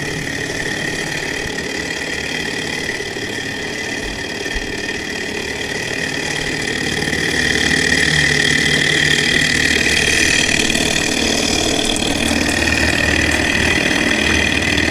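Small alcohol-fired Stirling engine running steadily while driving a generator, with a steady high-pitched whine that grows louder about halfway through.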